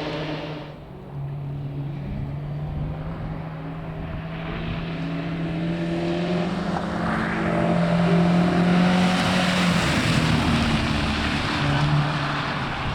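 Rally car engine held at steady revs, with a brief drop about a second in. It grows louder toward its loudest point about nine seconds in, a hiss rising with it.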